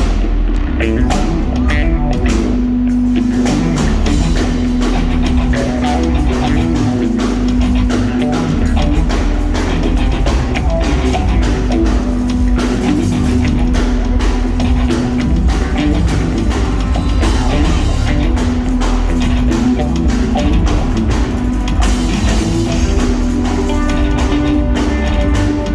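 Live rock band playing an instrumental jam: electric guitars, bass and drum kit, loud and steady.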